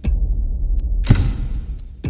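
Typhoon-force wind buffeting a phone's microphone in a loud, steady low rumble, broken by two heavy thumps about a second apart.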